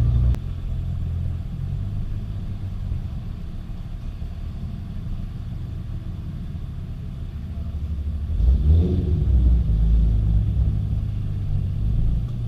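Car engine running with a steady low rumble while driving, getting louder with a short burst of acceleration about eight seconds in.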